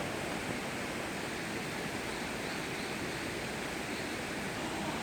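Steady rushing of water from a waterfall, an even hiss without breaks.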